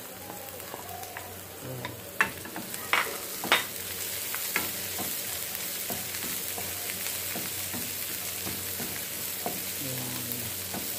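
Diced onion and garlic sizzling in hot oil in a frying pan, stirred with a spatula. A few sharp clicks and scrapes come about two to four seconds in, then a steady sizzle.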